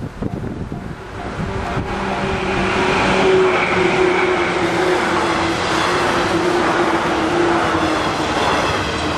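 E257 series electric multiple unit passing close by, the running noise of its wheels on the rails building about a second in and then holding loud, with a steady whine that falls slightly in pitch near the middle.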